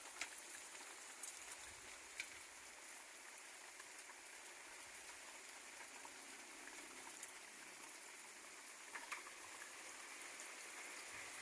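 Steady rain falling, an even hiss with a few sharper drops or taps standing out now and then.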